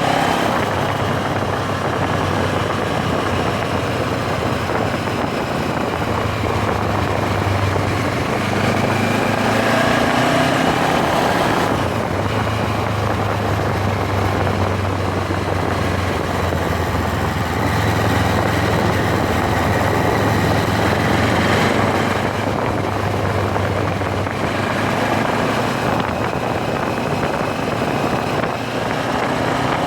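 MZ 1000 motorcycle's parallel-twin engine running under way, a steady hum whose pitch rises about a third of the way in and dips briefly a couple of times as the revs change.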